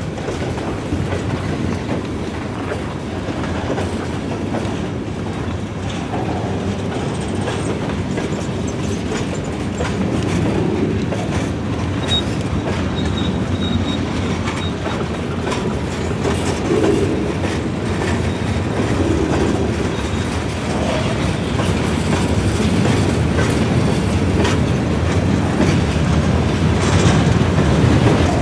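Covered hopper cars of a long freight train rolling past close by, steel wheels clicking over the rail joints in a continuous clatter that grows gradually louder.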